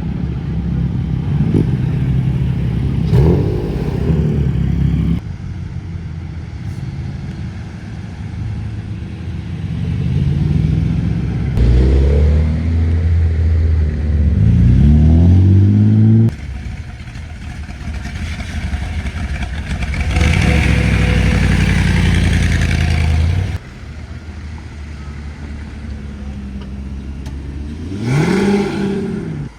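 Sports car engines and exhausts, one after another: revving, then a car accelerating hard with the pitch climbing through the gears, then steady running, and a sharp rev blip that rises and falls near the end.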